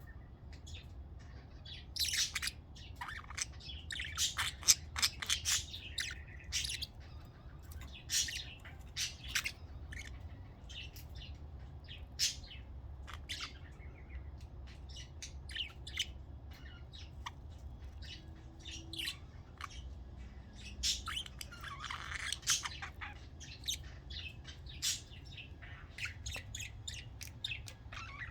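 Lutino budgerigar chirping and squawking in short, irregular calls, with a steady low hum underneath.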